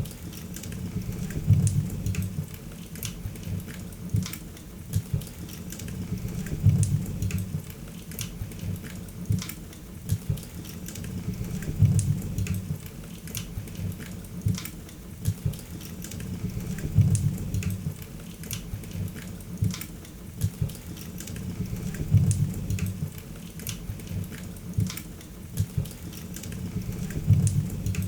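Wood fire crackling in a fireplace: a steady stream of sharp pops and snaps over a low rumble of flames, the pattern swelling and repeating about every five seconds.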